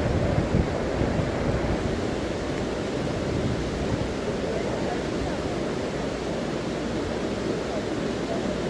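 Steady rush of floodwater from a swollen, overflowing river. Wind buffets the microphone in the first moment.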